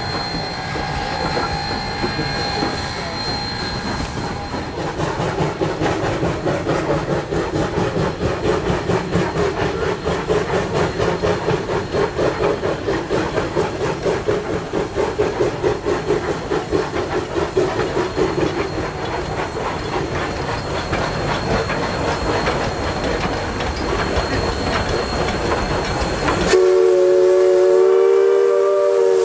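Narrow-gauge steam locomotive working along the track, with a fast, even rhythm of exhaust and rail clatter. Near the end the sound cuts abruptly to a louder steam whistle sounding several tones together.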